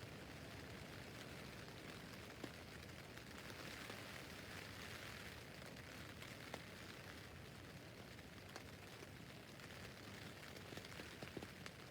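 Rain falling steadily on a tent roof: a soft, even hiss with scattered single drops tapping on the fabric.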